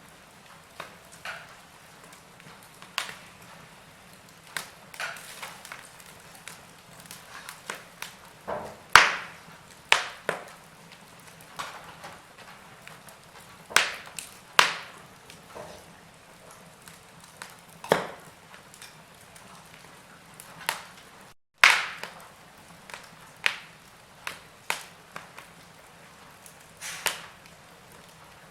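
Log fire crackling: irregular sharp pops and snaps over a soft steady hiss, a few of them much louder than the rest. The sound cuts out completely for a split second about three-quarters of the way through.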